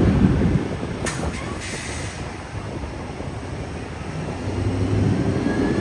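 Low rumble of jet aircraft engines. It drops off about half a second in and builds again near the end.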